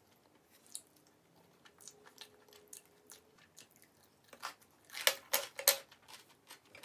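Close-up eating sounds: soft chewing, then a run of loud, crisp crunching bites about four and a half to six seconds in.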